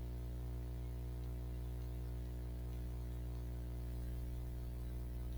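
Steady low electrical mains hum with a buzz of many even overtones above it, plus faint hiss.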